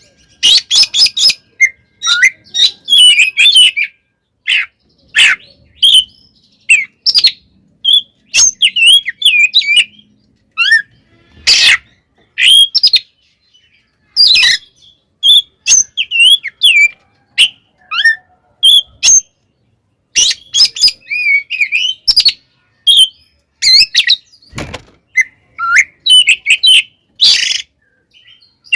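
Oriental magpie-robin (kacer) singing loud, fast phrases of varied whistles and chatter, broken by short pauses, with a few harsh rasping notes mixed in: the agitated fighting-mood song that keepers play to rouse other magpie-robins.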